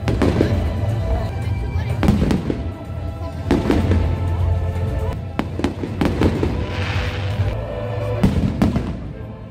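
Aerial firework shells bursting, with sharp bangs every second or two and a fizzing crackle a little past the middle.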